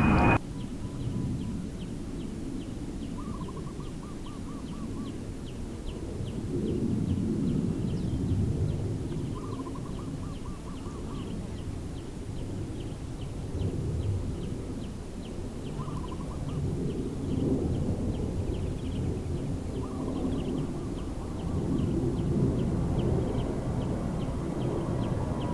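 Outdoor ambience of a low, uneven wind-like rumble, with a faint high ticking that repeats about three times a second. A bird's short trilling call of a few quick notes comes four times. In the first half second a loud aircraft sound cuts off abruptly.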